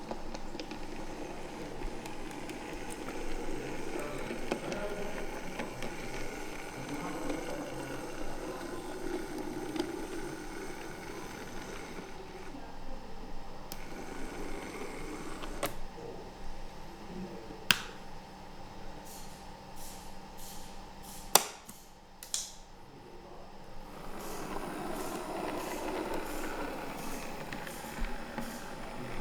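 Busy indoor hall ambience: a murmur of distant visitors' chatter, with a few sharp clicks, the loudest about twenty-one seconds in.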